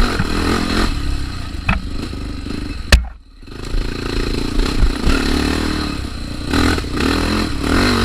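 Trail motorcycle engine running over rough ground, its pitch rising and falling with the throttle, with rattling from the bike. About three seconds in there is one sharp knock, and the engine sound briefly drops away.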